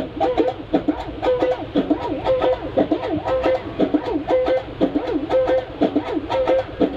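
Music on a plucked string instrument: a melody that bends and wavers in pitch over many quick, sharply struck notes.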